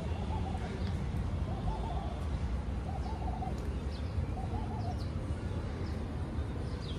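A dove cooing: four short, bubbling phrases about a second and a half apart, with small birds chirping high above and a steady low rumble underneath.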